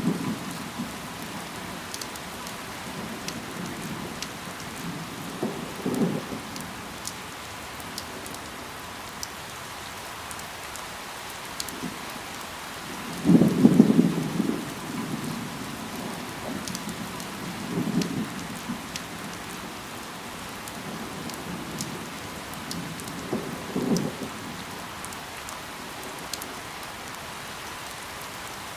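Steady rain falling on leaves, with scattered sharp drop ticks. A few short low rumbles rise out of it, the loudest about halfway through.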